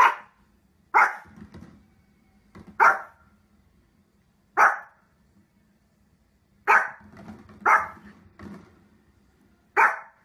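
A small Pomeranian barks seven times, each bark short and sharp, one to two seconds apart.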